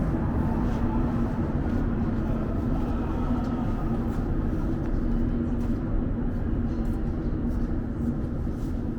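Montreal metro train running on rubber tyres: a steady rumble with a constant low hum.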